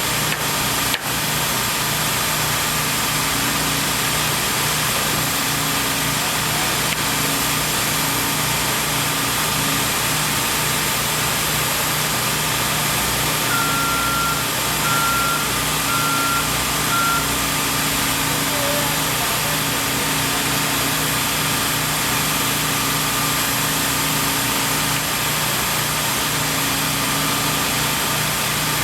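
Heavy construction equipment engine running steadily at a worksite. About halfway through, a backup alarm beeps four times, about once a second.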